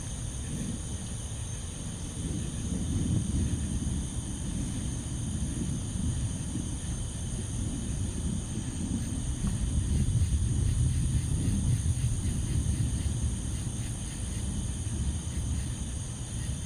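A steady, high chorus of night insects chirring over a low, uneven rumble that swells about three seconds in and again around ten seconds in.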